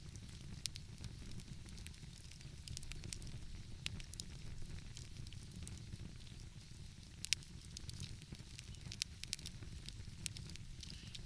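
Wood fire crackling, with sharp irregular pops scattered through it, the loudest a little past halfway, over a steady low rumble.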